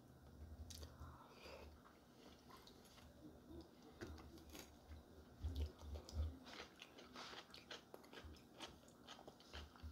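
Faint close-up eating sounds: chewing and biting with small crunches and clicks, and a few louder low thuds a little past the middle.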